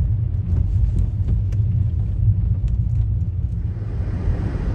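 Car being driven, with a steady low rumble of engine and road noise. A louder hiss comes in near the end.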